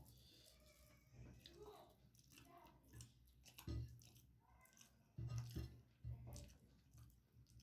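Faint chewing and wet mouth sounds of someone eating rice and curry, with soft clicks and a few low thuds, the loudest just past the middle.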